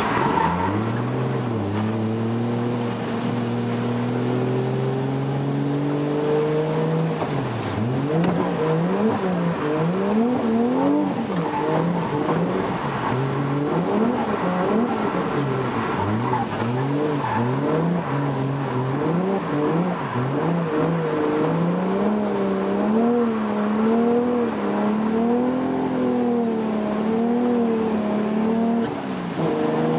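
Toyota JZX100's engine under hard driving, its pitch climbing steadily at first, then rising and falling again and again from about seven seconds in as the throttle is worked through drifts.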